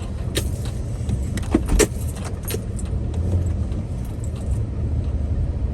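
Lifted Toyota Sequoia driving over rough dirt ground: a steady low engine and tyre rumble, with a cluster of sharp knocks and rattles over the bumps in the first half, the loudest about two seconds in.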